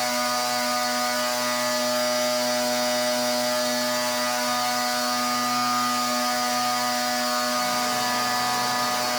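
Pressure washer running steadily: a constant machine hum from its motor and pump under the hiss of the water spray.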